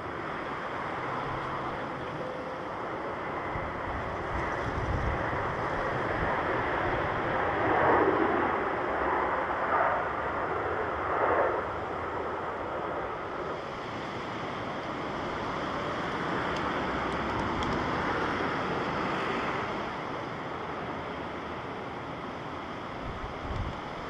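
Jet airliner noise mixed with wind on the microphone: a steady rushing roar that swells to its loudest about eight to twelve seconds in.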